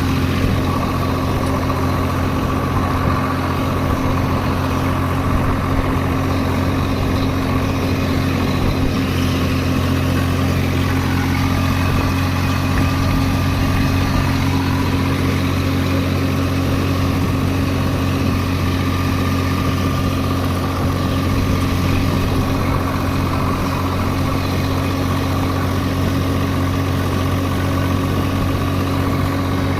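Swaraj 744 FE tractor's three-cylinder diesel engine running steadily at a constant speed, its pitch and loudness holding even throughout.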